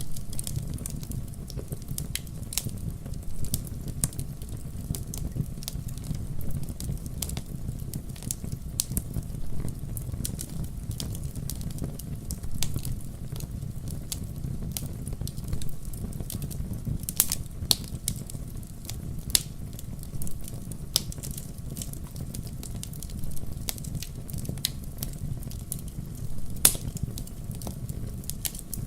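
Wood fire crackling in a fireplace: frequent irregular pops and snaps over a steady low rumble of the flames, with one louder snap near the end.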